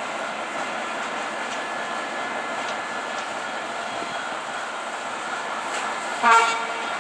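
Steady running noise of an EP20 electric locomotive and its passenger train rolling in. About six seconds in comes one short horn toot, the loudest sound.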